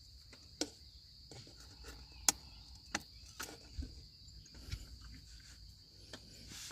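Crickets trilling steadily in the background, with scattered sharp clicks and light knocks throughout.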